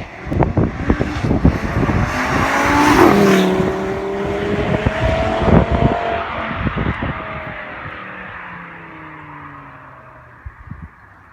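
Audi RS3's turbocharged 2.5-litre five-cylinder engine accelerating hard past, loudest about three seconds in, then dropping in pitch and fading as the car pulls away. Wind buffets the microphone in gusts during the first half.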